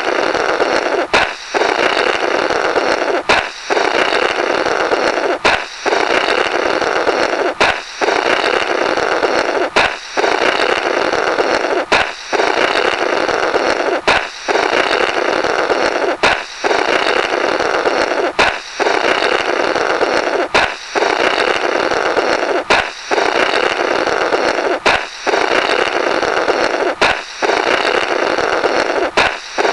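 Balloon-break 'Blorrrt' sound effect on loop: a sharp balloon pop, then a long, rough raspberry-like blow through the burst rubber. It repeats about every two seconds.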